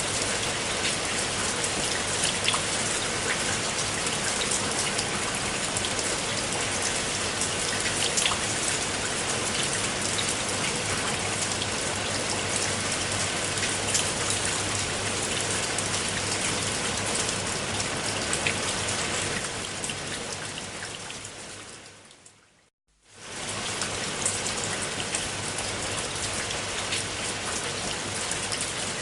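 Steady rain with scattered louder drops ticking. About twenty seconds in it fades away to a moment of silence, then comes straight back at full level.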